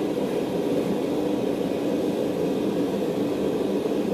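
Forge burner running with a steady, unbroken rushing noise while a mild steel bar heats toward forging temperature.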